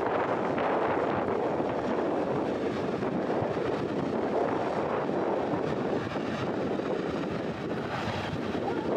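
Freight train rolling past: a steady noise of wheels on rails.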